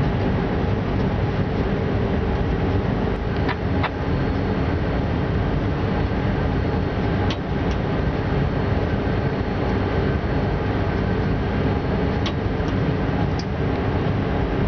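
Steady rumble and hum of a train heard from inside the locomotive cab, running at about 80 km/h, with a few sharp clicks now and then.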